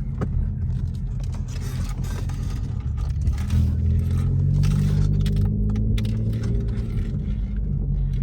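Straight-piped 2016 Ford Focus exhaust, with no muffler or resonator, running with a deep drone at low, fairly steady revs that rise and fall slightly.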